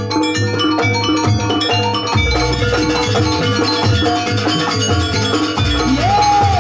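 Javanese gamelan dance music: metal mallet-struck keyed instruments play quick ringing notes over a steady low drum beat. A sliding, wavering melodic line comes in near the end.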